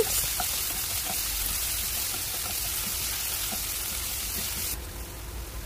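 Chopped onion, ginger and green chilies sizzling gently in ghee in a frying pan on a low flame as they are stirred. The hiss drops off abruptly near the end.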